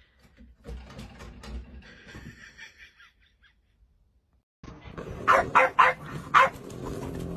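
Animal calls: a faint stretch of mixed sounds, a short break, then four loud, short calls in quick succession in the second half.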